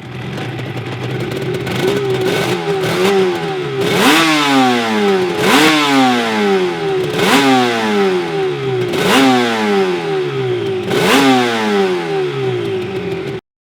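1985 Suzuki RG500's square-four two-stroke engine idling, then revved: a few quick blips about two seconds in, then five sharp revs about every two seconds, each falling back to idle. The sound cuts off suddenly near the end.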